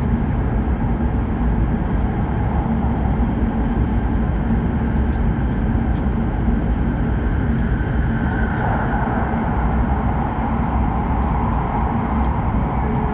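Hokuriku Shinkansen train running, heard inside the passenger cabin: a steady rumble and hiss of the wheels and running gear, with faint scattered ticks, growing slightly brighter a little past halfway.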